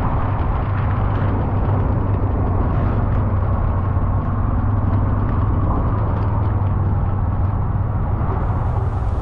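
A car being driven: a steady engine hum with continuous road rumble.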